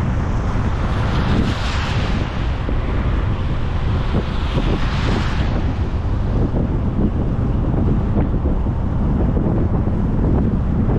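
Steady road and wind noise from a vehicle driving, a low rumble with two swells of hiss, about a second and a half in and again about four and a half seconds in.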